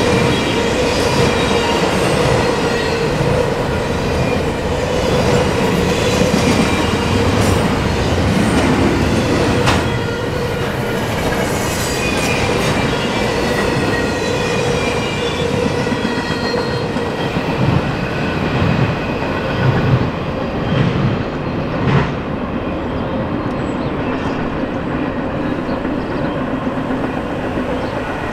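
Double-stack intermodal container cars of a freight train rolling past at speed: a steady rumble of steel wheels on rail with thin high wheel squeal drifting in pitch, and a few sharp knocks from the wheels and couplers.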